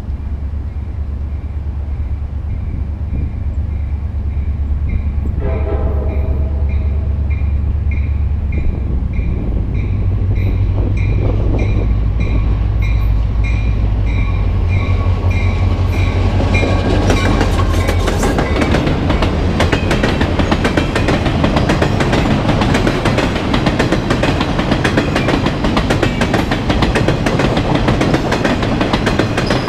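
CSX diesel freight train: the locomotive's engine rumbles low, and its horn sounds for a few seconds about five seconds in. A bell rings about twice a second until roughly halfway through. Then rail cars roll past with steady wheel clatter over the rail joints.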